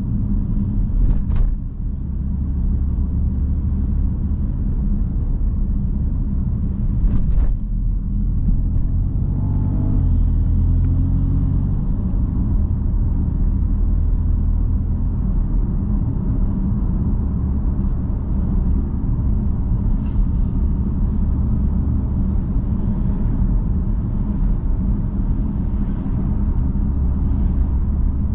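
BMW M3 F80's twin-turbo inline-six running at a steady low drone while driving, its pitch rising for a moment about a third of the way in as the car speeds up. Two brief sharp clicks come early on the way.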